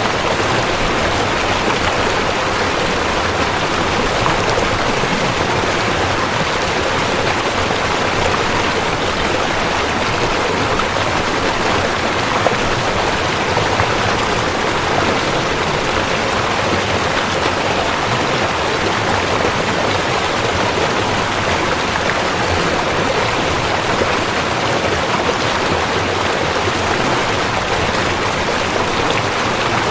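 River water flowing and rushing steadily, an even, unbroken rush.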